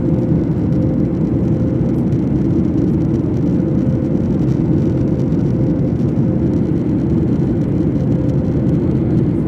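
Steady low roar inside the cabin of a Boeing 737 MAX airliner, engines and airflow running evenly, with a faint hum that fades in and out.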